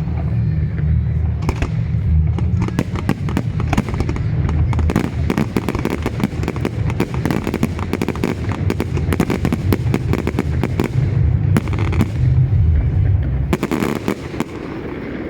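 Fireworks display: a dense run of sharp bangs and crackling over a deep, continuous rumble, thickest from a few seconds in until near the end.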